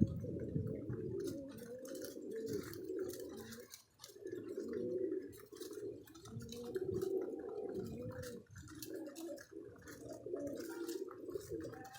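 Domestic pigeons cooing, several low warbling coos overlapping with brief pauses between them, with scattered sharp clicks throughout.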